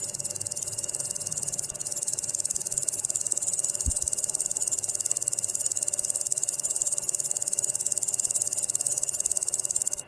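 Insect stridulation: a continuous, high-pitched, rapidly pulsing trill of the grasshopper-and-cricket kind, with a single low thump about four seconds in.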